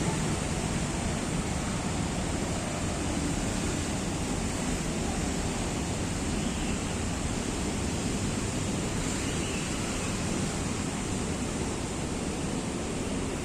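Steady rushing outdoor ambient noise, heaviest in the low end, with an even high hiss above it and no distinct events.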